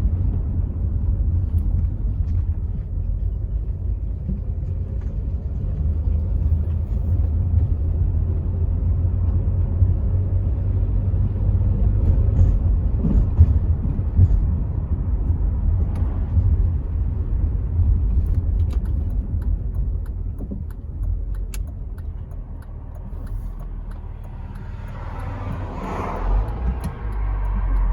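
Rover 75 V6 estate driving along: a steady low rumble of engine and road noise heard from inside the car. It eases off a little after about 22 seconds, and near the end a short swell of louder, higher noise rises and fades.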